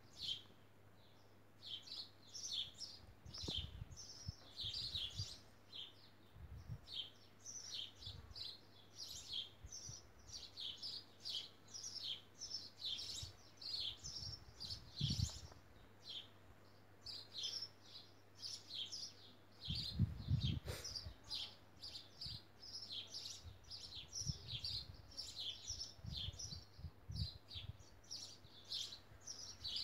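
Small birds chirping in a quick, unbroken string of short high calls, with a few dull low thumps, the loudest about two-thirds of the way through.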